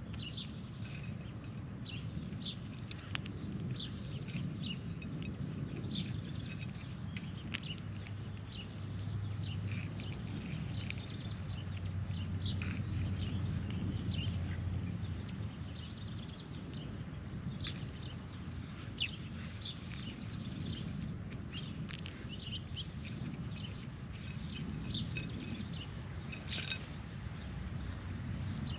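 Birds chirping in short, scattered calls at a backyard feeding spot, over a steady low rumble that swells for several seconds near the middle.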